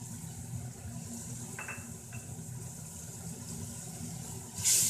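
Onion and spice masala (turmeric and red chilli) frying in oil in a steel pot, faint and steady under a low hum, then a sudden loud sizzling hiss near the end as the masala is stirred in the hot pot.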